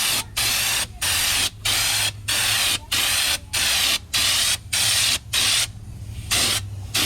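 Air-powered spray gun hissing in short, regular bursts, about nine of them, one every two-thirds of a second, over a steady low hum. The bursts stop about five and a half seconds in.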